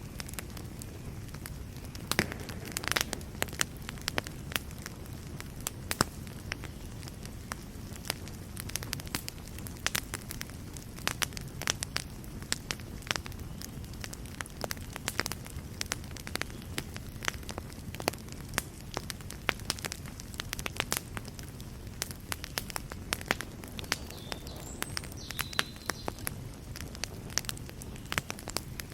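Fireplace fire crackling: many sharp, irregular pops and snaps over a steady low rumble of the flames.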